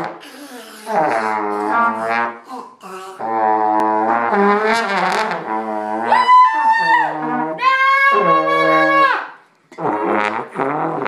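Brass instruments blown in a string of loud, held notes, each a second or two long and wavering slightly in pitch, with a brief break near the end.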